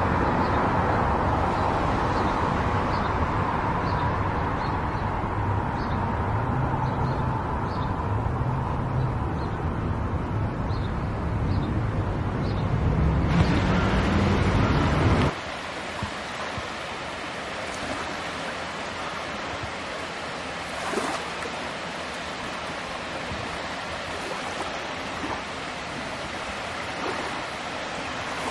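Car engine and road noise, with the engine tone rising and falling, cutting off abruptly about halfway through; after that a steady even hiss of outdoor noise with a few faint knocks.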